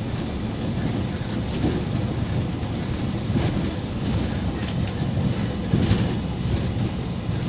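Interior noise of a MAZ 203.065 city bus on the move: a steady low engine and road rumble with scattered rattles and knocks from the body.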